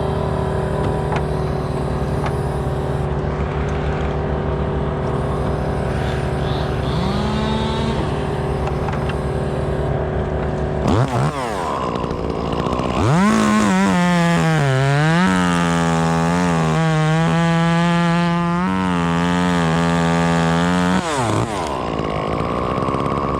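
A chainsaw revved to full throttle and cutting for about eight seconds, its pitch sagging when it bogs in the wood and then picking back up, before it drops back. Under it and before it, a steady engine drone.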